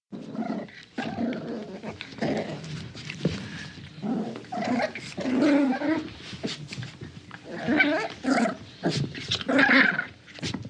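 Small dog growling in play during a game of tug of war, a run of uneven growls with short sharper yips and snarls mixed in.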